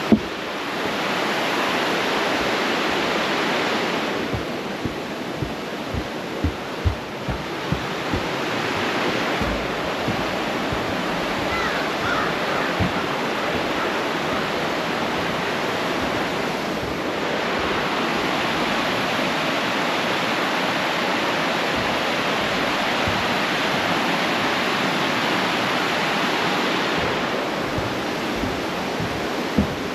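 Creek water rushing over falls, a steady loud rush that eases and swells. A few low thumps come in the first several seconds.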